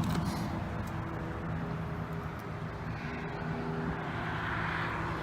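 A vehicle engine running steadily at idle, with a rush of noise swelling briefly near the end.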